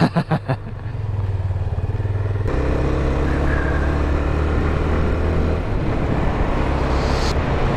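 Single-cylinder 250 cc motorcycle engine running steadily under way, with wind rush over it. Its note changes abruptly about two and a half seconds in and again near six seconds.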